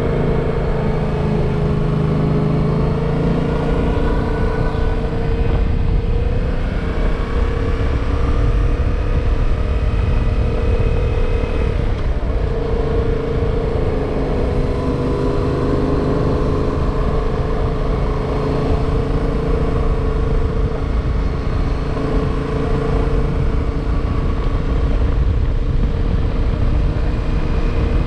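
Yamaha motorcycle engine running at a steady cruise, its note rising and falling slightly with the throttle through the bends, over a low rumble of wind on the microphone.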